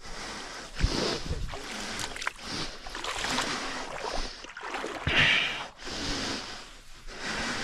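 Irregular splashing and sloshing of river water, with a louder bump about a second in and another about five seconds in.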